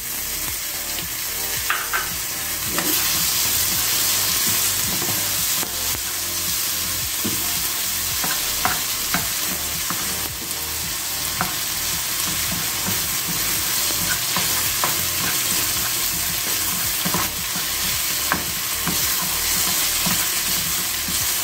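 Diced tomatoes and onion sizzling steadily in hot oil in a frying pan while a wooden spatula stirs them, with scattered short scrapes and taps of the spatula against the pan. This is the onion, garlic and tomato base being fried.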